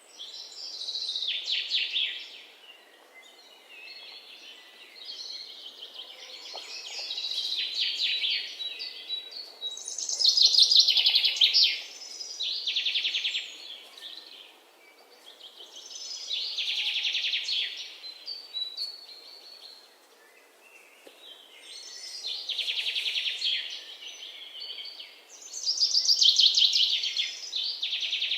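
A songbird singing phrases of rapid, trilled high notes, repeated about every five to six seconds.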